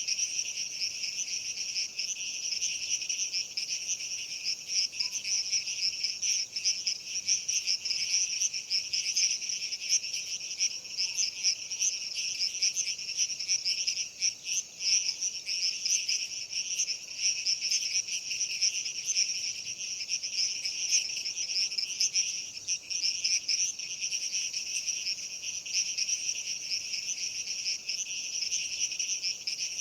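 Dense, continuous insect chorus, a steady high shrilling with a few faint short chirps at a lower pitch scattered through it.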